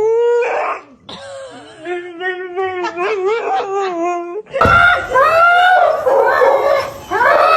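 A dog whining with wavering pitch, then, from about four and a half seconds in, louder repeated yowls that rise and fall, about one a second.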